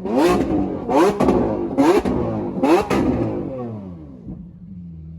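A car engine revved in four quick blips about a second apart, each rising sharply and falling back. The revs then sink slowly to a steady idle near the end.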